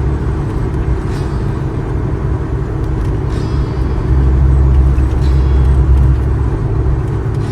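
Suzuki Jimny JA11's small three-cylinder turbo engine and road noise inside the cabin while driving, a steady low rumble that swells louder for about two seconds past the middle.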